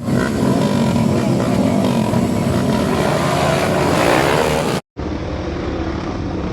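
Motocross motorcycle engines running hard, with a rising rev about four seconds in, then cut off abruptly. After a brief gap, steadier engine noise continues.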